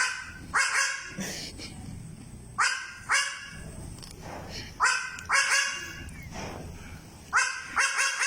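Baby goat making short, dog-like barks, in groups of two or three about every two to two and a half seconds.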